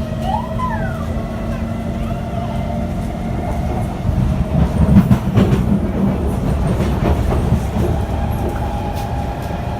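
Kawasaki C151 metro train in motion heard from inside the car: a steady rumble of wheels on track with a faint motor whine, growing louder with rattles and clacks about halfway through.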